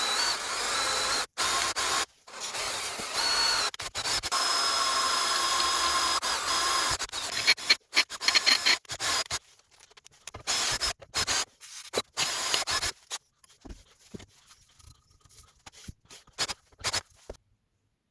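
Power tool running against a workpiece with a rubbing hiss and a faint steady whine, heard in short cut-together pieces. The noise turns into shorter separate bursts about halfway through and stops shortly before the end.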